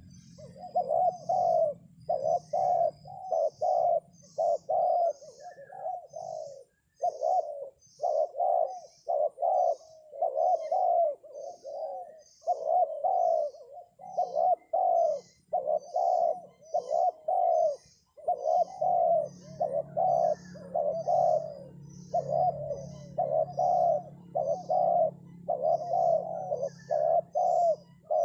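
Spotted doves cooing in rapid, back-to-back phrases: a dove lure call for trapping. A faint, high chirp repeats at an even pace of about one to two a second above the cooing.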